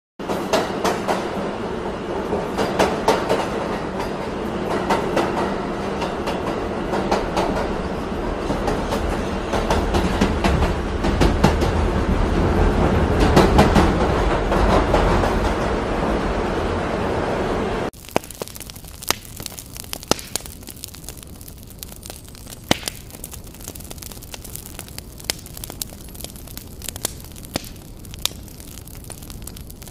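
Subway train running on its rails, a loud steady rumble with clickety-clack. About two-thirds of the way through it cuts off abruptly, and a bonfire takes over, crackling quietly with scattered sharp pops.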